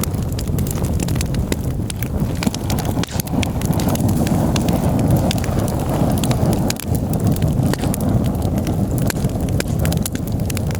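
Campfire burning, with many sharp, irregular crackles and pops over a steady low rumble.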